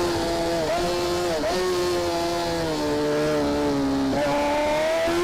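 Racing motorcycle engine running hard at high revs, its steady high note dipping briefly a few times and sliding lower before jumping back up near the end.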